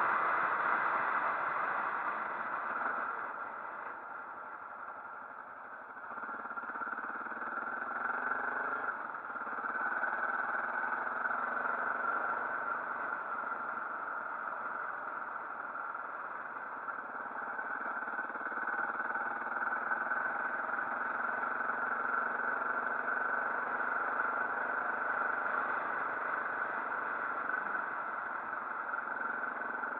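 Motorcycle engine running on the move, its pitch rising as it accelerates between about six and nine seconds in.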